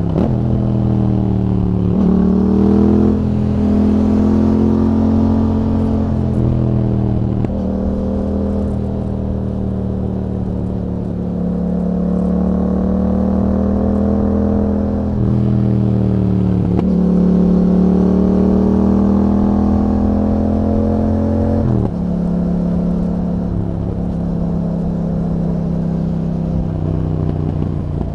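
Yamaha MT-07 parallel-twin engine through an aftermarket Akrapovič exhaust, ridden under changing throttle. Its pitch rises and falls repeatedly, with several abrupt steps up and down.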